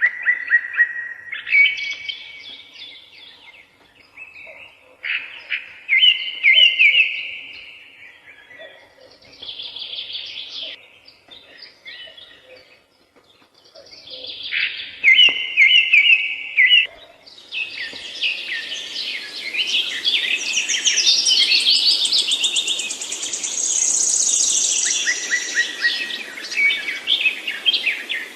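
Songbirds singing and chirping in short, repeated warbled phrases. About two-thirds of the way through, the song turns denser and higher-pitched.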